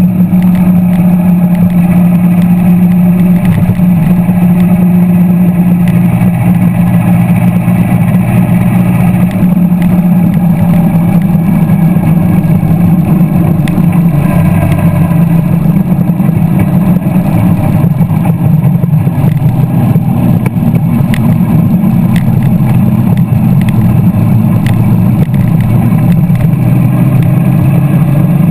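Car engine running steadily as the car drives along, a loud low drone with road noise; its pitch steps slightly a few times.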